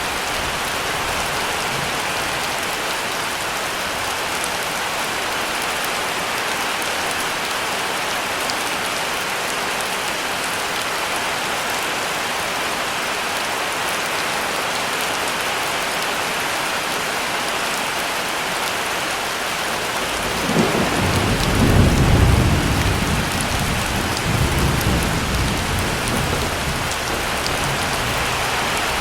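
Heavy rain falling steadily, with a low rumble of thunder rising about two-thirds of the way through, swelling to its loudest a second or so later, then rolling on more softly for a few seconds before fading.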